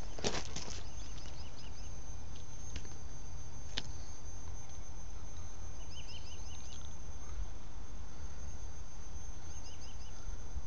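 A bird calls three times, each time a short run of quick high chirps, over a steady low rumble.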